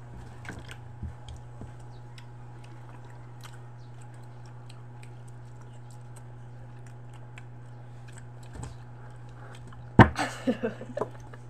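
Faint wet clicks and smacks of people chewing orange slices, over a steady low hum. About ten seconds in comes a single sharp knock, followed by voices.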